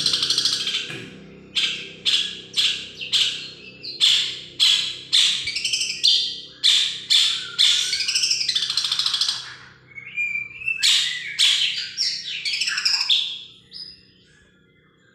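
Long-tailed shrike (cendet) singing a fast run of harsh, sweeping notes about two a second, the rapid chattering 'recing' style prized by bird keepers. The song stops about fourteen seconds in.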